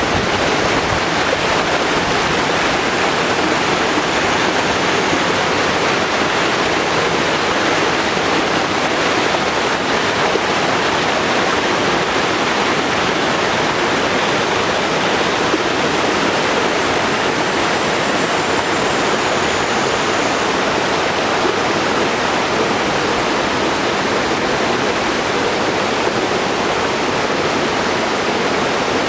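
Small mountain stream pouring over a little waterfall: a steady, loud rush of falling water that does not change.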